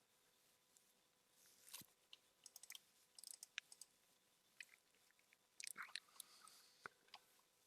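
Near silence, broken by faint, scattered small clicks and crackly noises a few times.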